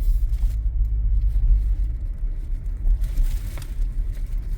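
Steady low rumble of a car driving, heard from inside the cabin: tyre and engine noise at road speed.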